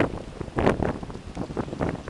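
Gusty storm wind buffeting the microphone in uneven rushes, with a stronger gust a little after half a second in.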